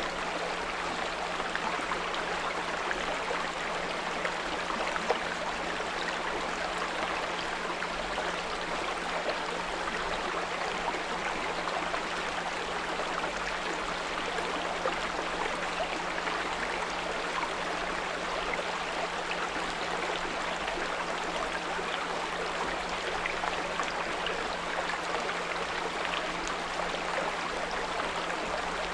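Small brook running steadily, its water trickling and gurgling, with a steady low 174 Hz pure tone mixed in underneath.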